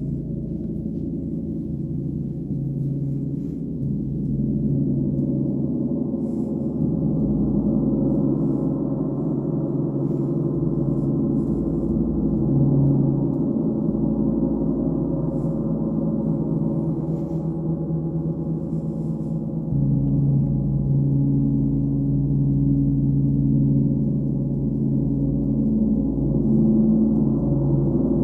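Sound bath: a continuous wash of overlapping low, sustained ringing tones. New tones enter about two-thirds of the way through and it grows slightly louder.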